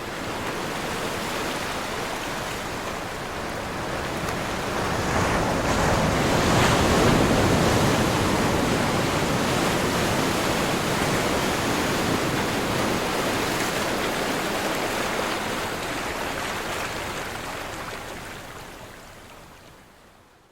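Ocean wave surf crashing and rushing, a steady wash of water noise that swells to its loudest about seven seconds in and then slowly fades away near the end.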